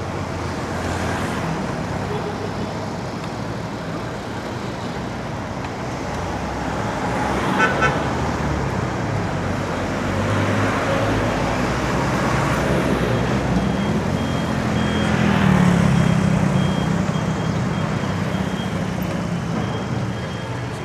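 Road traffic heard from a moving bicycle: steady road and wind noise with motor vehicles running alongside. A short horn toot sounds about eight seconds in, and a louder engine passes a few seconds later.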